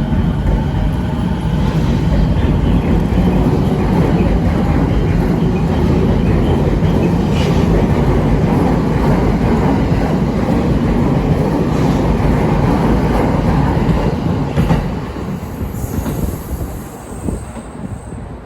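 Tokyo Waterfront Area Rapid Transit 70-000 series electric train departing and running out of the station, a loud steady rumble of wheels on rail with occasional clacks over rail joints. It fades away over the last few seconds as the train leaves.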